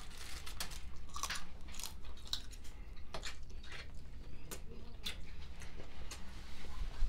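People chewing and biting food close to the microphone: a string of irregular crunches and mouth clicks over a steady low hum.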